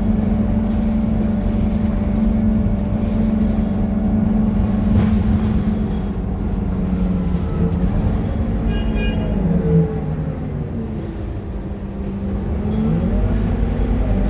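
Scania K230UB city bus engine running steadily, then its note dropping away as it slows and eases off about eight seconds in, and rising again as it pulls away near the end. A short high electronic tone sounds about nine seconds in.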